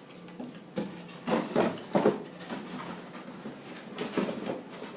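Cardboard being handled: a folded cardboard insert slid and pushed into a cardboard display box, giving a few short scraping rustles.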